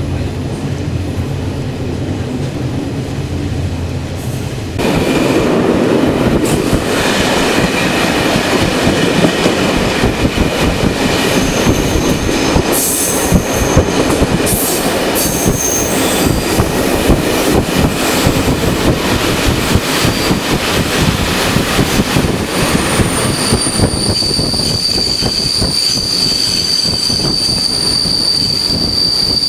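Old passenger coach of a moving train, heard from inside: the wheels roll and clatter on the rails. About five seconds in it suddenly gets louder, and in the second half the wheels squeal high and steadily.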